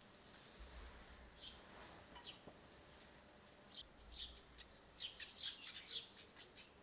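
Small birds chirping faintly: a few scattered short, high chirps, then a quick run of chirps about five seconds in.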